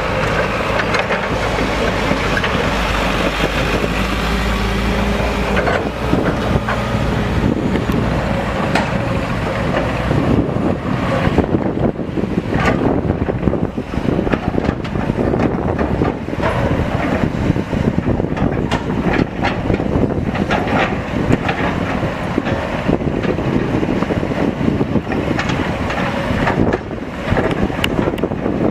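Heavy diesel machinery running, a steady engine note for the first few seconds, then rougher, noisier running with many short knocks and clanks.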